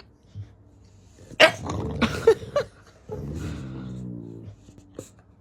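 A dog vocalizing: a quick run of loud barks, then one long drawn-out call lasting about a second and a half.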